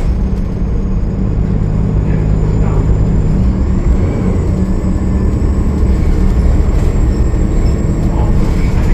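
Cummins ISL9 diesel engine of a 2013 Gillig Low Floor transit bus running under way, a steady loud low rumble with a thin high whine over it.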